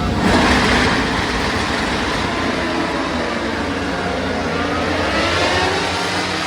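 Superbike racing motorcycles at high revs going past. A loud pass comes just after the start, its engine note falling away, and a second bike swells up and passes about five seconds in.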